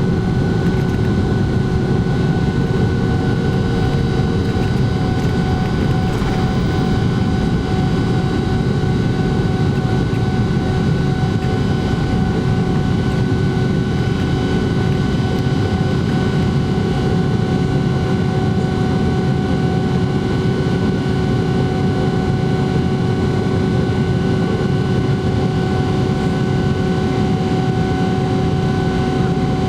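Boeing 777-300ER's GE90-115B turbofan engines running steadily during takeoff: a constant low rumble with a steady whine made of several fixed tones, unchanging in level.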